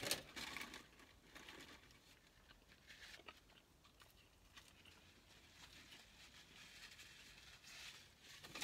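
Faint chewing of fast food eaten by hand, with scattered small clicks and rustles and a slightly louder rustle right at the start.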